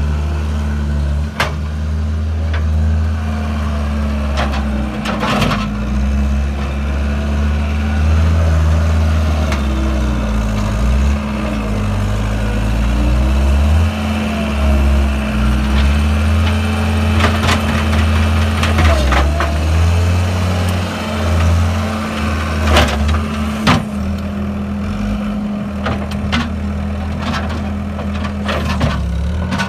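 John Deere 323D compact track loader's 74 hp turbo diesel engine running, its speed rising and falling, with several sharp clanks.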